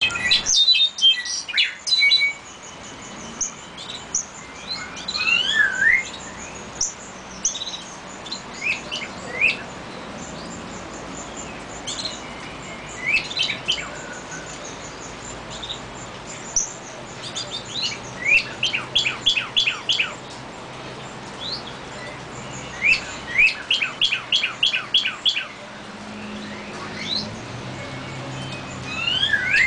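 Small birds singing and chirping: scattered short whistled notes and glides, with several quick runs of short rising chirps, about four a second.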